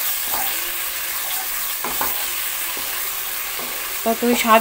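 Spice paste sizzling in oil in a non-stick wok while a wooden spatula stirs and scrapes it against the pan, as the masala is fried until the oil separates. A person's voice comes in briefly near the end.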